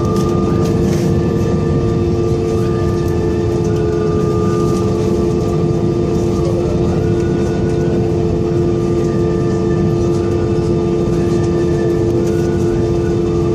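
Steady drone inside the cabin of an Airbus A320-214 with CFM56 engines: rumbling engine and airframe noise with two strong steady hum tones, and fainter higher tones that step up and down every couple of seconds.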